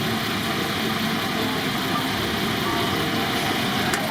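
Petit Train tourist road train on the move, heard from aboard: steady engine, tyre and wind noise.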